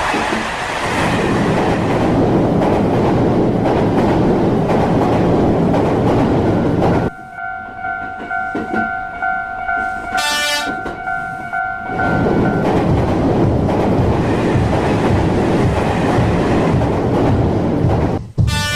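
Train running noise, loud and steady, dropping away about seven seconds in to a quieter stretch with a steady tone, then returning about five seconds later. A short horn blast sounds partway through the quiet stretch and again at the very end.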